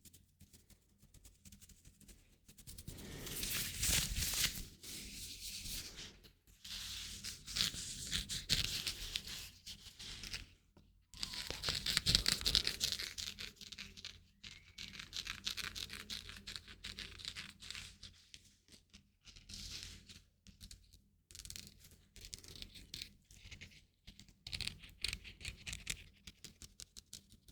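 Close-miked hand sounds: rubbing and crinkling that swell and fade in slow waves, with many small crackles and short pauses.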